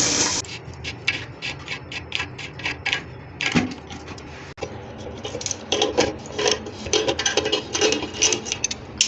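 Plastic sink bottle trap being unscrewed by hand. Its parts rub and rasp against each other in short strokes, about four a second at first, then faster and less even.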